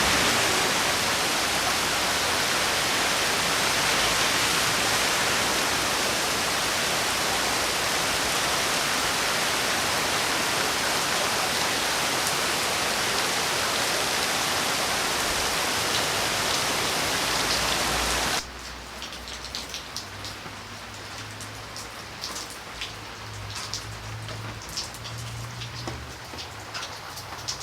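Steady, dense rain hiss. About two-thirds of the way through it cuts off abruptly to quieter, lighter rain with separate drops pattering.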